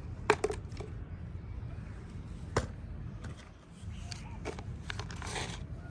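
A few sharp taps and clicks from objects being handled, the loudest about a third of a second in and another about two and a half seconds in, over a low steady rumble.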